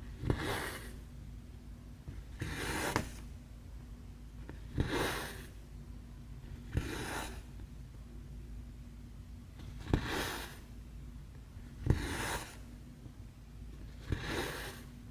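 Hand cross-stitching on 11-count fabric: a needle pops through the cloth, then a short swish follows as the floss is drawn through. This repeats about once every two seconds, seven times.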